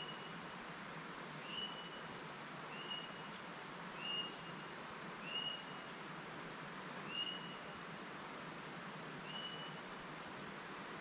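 Wild birds calling: one repeats a short, slightly falling note every second or two while others chirp higher, over a steady background hiss.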